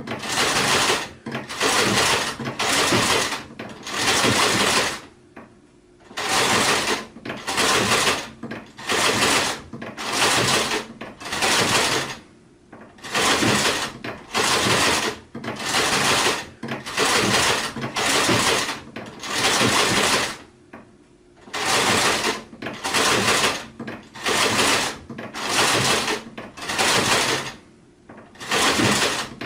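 Sewing machine stitching in short runs of about a second each, stopping and restarting roughly once a second, with a longer pause about every seven to eight seconds.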